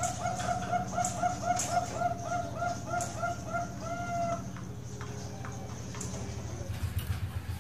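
Zebra dove (Bangkok-strain perkutut) singing: a quick run of short, evenly repeated cooing notes, about four to five a second, ending in a longer drawn note about four seconds in. A steady low hum runs underneath.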